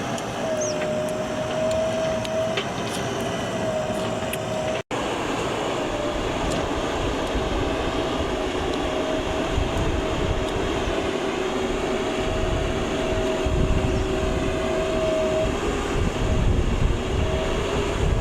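JCB 3DX backhoe loader's diesel engine running steadily with a steady whine over it, the low rumble growing heavier about halfway through. A split-second dropout about five seconds in.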